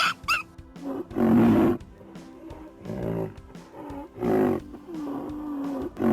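Tiger roaring and growling in several loud, rough bursts, about one every second and a half.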